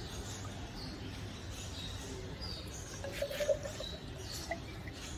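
Small birds chirping in short, high calls, over a faint thin trickle of water pouring from a two-stroke motorcycle power box into a glass measuring cylinder. A brief louder noise comes about three and a half seconds in.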